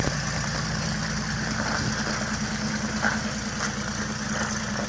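Toyota Land Cruiser 78's engine idling steadily.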